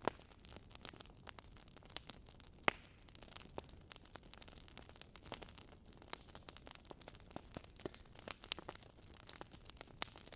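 Wood fire in a fireplace crackling: a steady scatter of small snaps and pops, with one louder pop a little under three seconds in.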